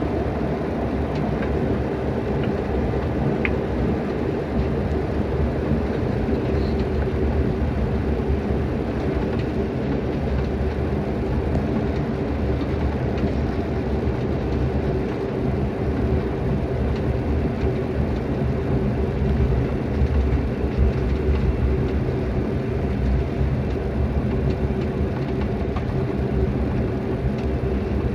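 Steady rumble of jet engines and rushing airflow heard inside an airliner cabin, with a constant low hum and no sudden changes.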